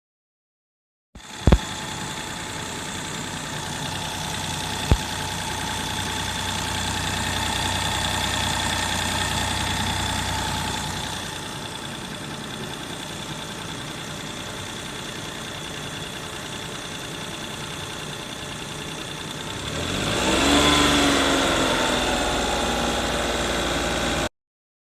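Daihatsu Esse's KF three-cylinder engine idling, with a steady high whine over it, revved briefly about 20 seconds in. Two sharp clicks come early on, the first just after the sound begins.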